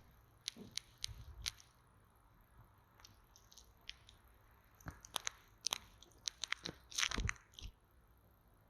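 A bamboo stick poked and tapped close against a microphone, giving scattered crisp clicks and crackles in two clusters, the loudest just after seven seconds in.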